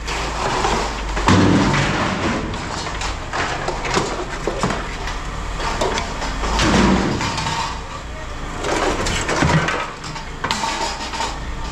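Scrap aluminum extrusion clattering and clanking as pieces are handled and tossed into sorting bins, a busy run of irregular metal knocks.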